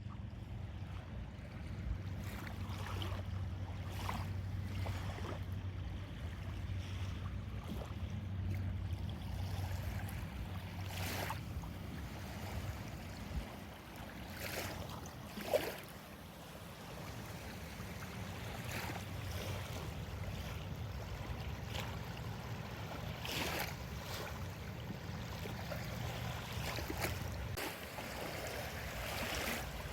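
Small waves washing on a lake beach, a soft splash every few seconds, over a steady low wind rumble on the microphone.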